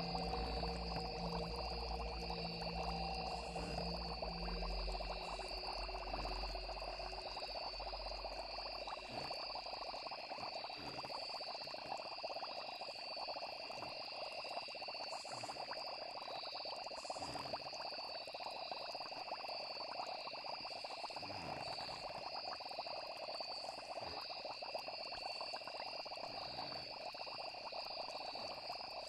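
Night chorus of frogs and crickets, a steady trilling. A low music drone underneath fades out about nine seconds in.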